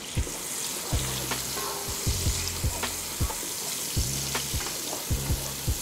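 Chopped mushrooms and shallots sizzling in hot oil and butter in a frying pan, with a spatula stirring them and knocking against the pan a dozen or so times at irregular intervals.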